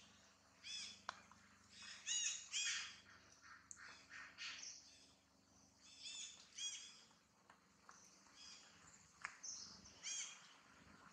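Birds calling: a string of short, high chirps at irregular intervals, a second or two apart.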